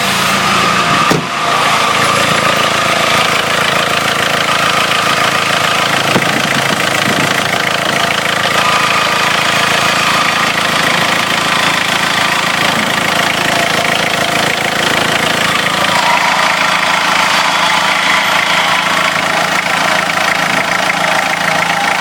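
Nissan CD20T 2.0-litre four-cylinder turbodiesel engine idling steadily, with diesel clatter.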